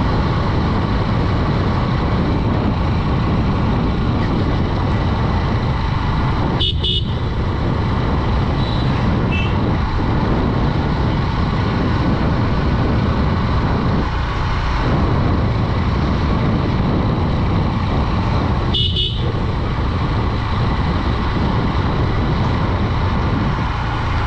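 Honda Dream 110's single-cylinder four-stroke engine running at steady road speed, under a heavy rumble of road and wind noise. A horn beeps briefly twice, once about seven seconds in and again near nineteen seconds.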